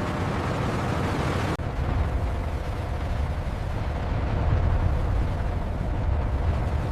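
Deep, steady rumble of heavy industrial machinery, cutting abruptly about one and a half seconds in to a darker, bass-heavy rumble.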